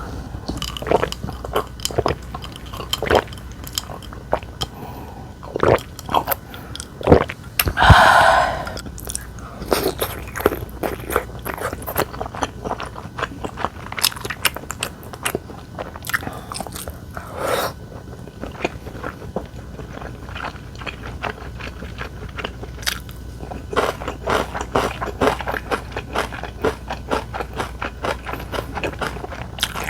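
Close-miked eating: a person biting and chewing crisp food, with a long irregular run of crunches and a brief louder noisy sound about eight seconds in.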